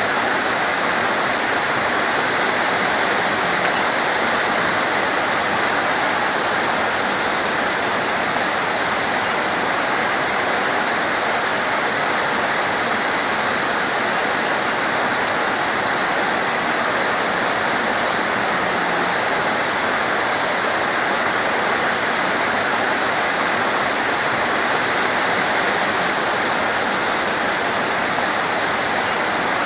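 Heavy, torrential rain pouring down steadily, a dense even hiss with no let-up. A single brief click about halfway through.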